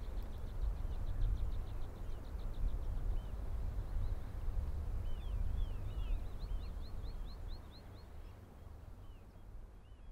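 Outdoor ambience of small birds calling, with short chirps and quick runs of rising notes, over a steady low rumble; it fades out near the end.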